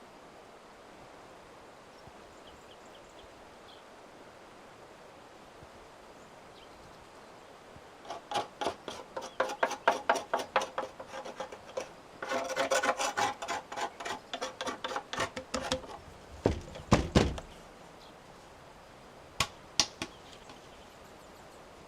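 After a stretch of faint steady hiss, a rapid, irregular run of sharp knocks and scraping lasts about eight seconds, followed by a few heavier low thuds and then two single sharp clicks.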